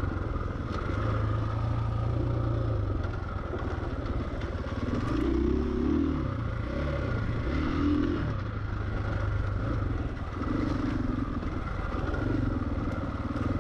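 Dirt bike riding on a trail, its motor rising and falling in level, with clatter and scraping.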